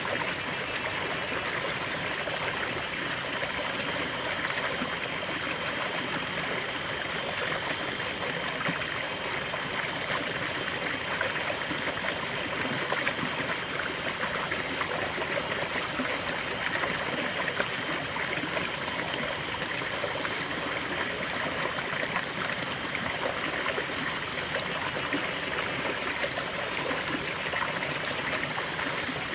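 A small forest waterfall and stream flowing, a steady rushing and splashing of water with no pauses or changes.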